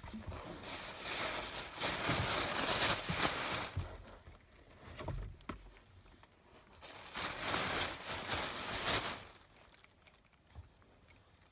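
Rubbish being handled and crinkled, such as plastic bags or wrappers: two long spells of rustling, the first about three seconds long and the second about two seconds, with a few light knocks between.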